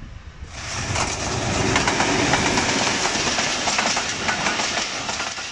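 A diesel-hauled passenger train passing close at speed, its coaches' wheels clattering over the rail joints. The noise builds about half a second in and eases off near the end.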